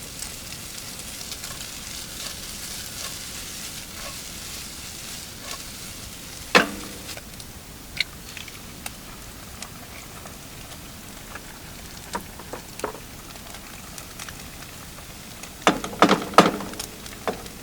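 Food sizzling in a frying pan, a steady hiss, with a sharp clink about six and a half seconds in and a run of clinks and knocks near the end.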